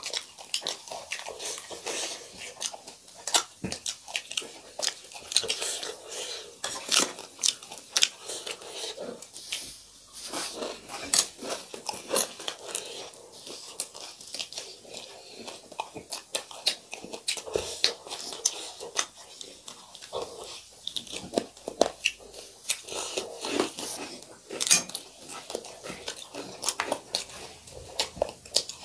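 Close-miked eating: a person chewing and crunching a mouthful of chiura (dry beaten rice) with fried chicken. Dense, irregular crisp crunches and wet mouth clicks come several times a second, with a few louder bites.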